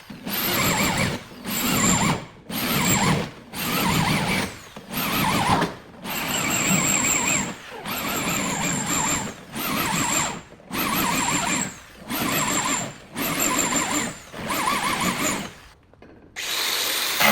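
Rhythmic scraping strokes, about one a second, each carrying a squeal. They stop shortly before the end.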